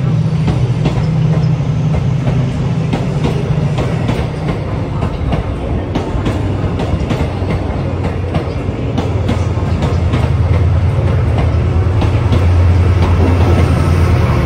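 TransPennine Express Mark 5a coaches rolling slowly past along the platform, their wheels clicking over the rail joints. A Class 68 diesel locomotive's engine runs steadily underneath and grows louder over the last few seconds as the locomotive draws near.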